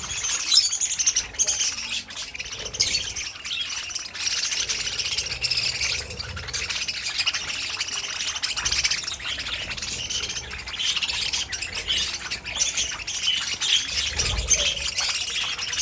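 Budgerigars chirping and chattering without a break, many calls overlapping.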